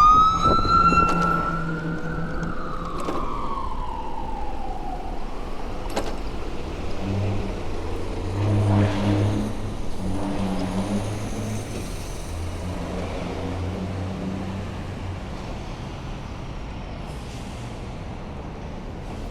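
An emergency vehicle siren wailing. Its pitch rises once and then glides down over the first few seconds as it winds down. Street traffic follows, with a vehicle engine's low hum in the middle seconds.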